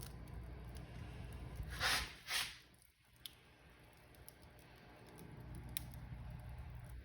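Wood fire crackling in a fireplace: a steady low rumble with scattered sharp pops, and two louder, longer crackles about two seconds in.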